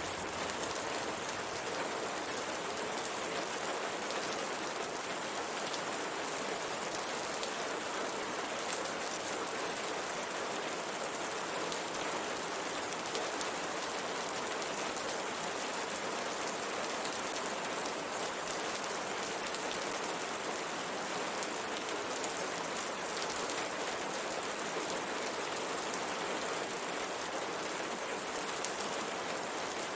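Steady rain falling and pattering on a window, with faint scattered drop ticks.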